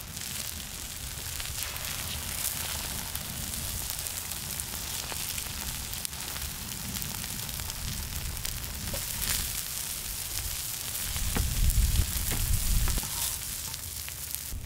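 Oil sizzling steadily on a cast-iron pot-lid griddle as battered jeon fry, with scattered faint clicks. A low rumble, the loudest part, comes near the end.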